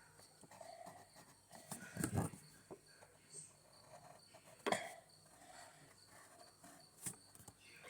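Faint, evenly repeating chirping of a cricket, with a soft knock about two seconds in and another a little before five seconds.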